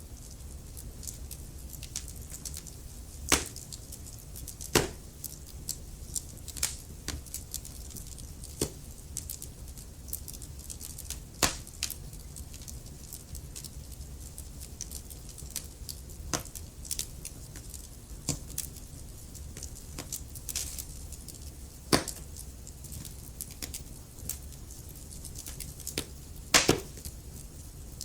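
Wood fire burning in a fireplace: irregular crackles and sharp pops over a low steady rumble, with a handful of louder pops scattered through.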